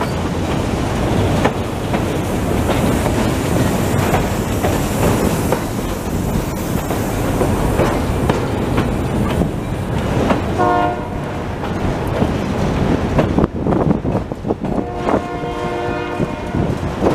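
Freight train of autorack cars rolling past, with a steady rumble and wheels clicking over the rail joints. A locomotive horn sounds briefly a little past the middle and again for about a second and a half near the end.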